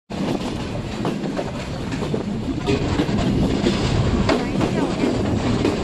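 Passenger train running along the track: a steady rumble with scattered knocks from the wheels and coaches.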